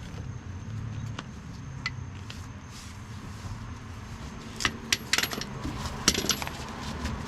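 Sharp metallic clinks and rattles of steel hand tools working on leaf spring nuts and bolts: a few single clicks at first, then a quick cluster of clinks about halfway through, over a steady low rumble.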